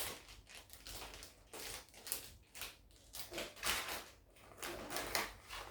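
Packaging of a Gundam model kit being handled, with irregular bursts of crinkling and rustling.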